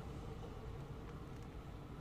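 Low rumble of a departing Newag Impuls electric train, fading slowly as it moves away.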